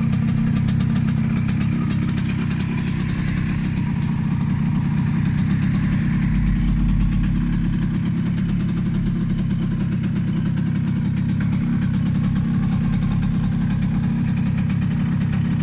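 1983 Suzuki GP100's single-cylinder two-stroke engine idling steadily.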